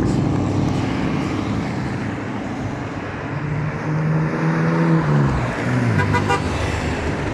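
Trucks passing in a convoy with steady road and engine noise. About three seconds in, a horn sounds for nearly two seconds, and its pitch drops as it goes by.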